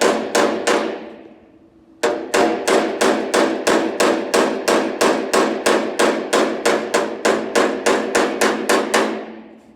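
Small body hammer tapping out little high spots on the steel door panel of a Fiat 1600 Coupé, about three ringing metallic blows a second. A few blows at the start, a pause of about a second, then a long even run that stops shortly before the end.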